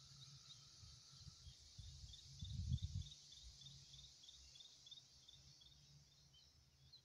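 Faint forest ambience in early summer: a steady high hiss of insects or distant birdsong, with a long run of short high chirps repeating about three or four times a second. A brief low rumble comes a little before the middle.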